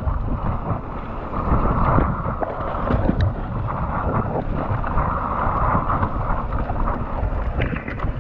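Wind buffeting the action-camera microphone over the rumble of a Commencal Meta AM 29 mountain bike's tyres rolling down a dirt trail, with frequent small knocks and rattles from the bike.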